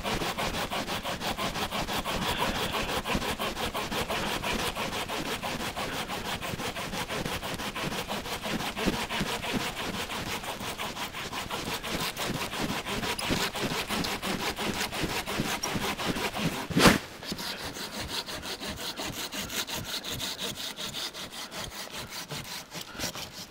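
Hand saw cutting into resin-soaked pine fatwood with rapid back-and-forth strokes. A single sharp crack comes about three-quarters of the way through, after which the strokes go on more lightly.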